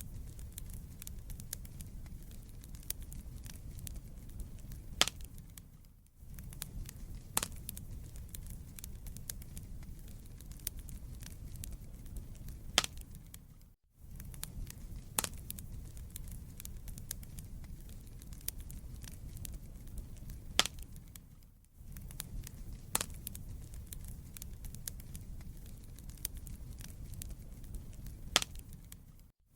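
Wood fire burning in a fireplace: a steady low rumble of flames with scattered crackles and an occasional louder pop. The same stretch of recording loops about every eight seconds, with a brief dip in level at each join.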